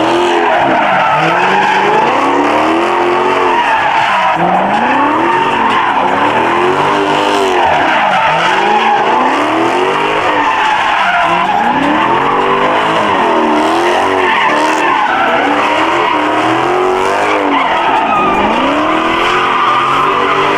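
Car engine revving up and down over and over while the tires squeal continuously, as in a burnout or donuts in a car-meet pit.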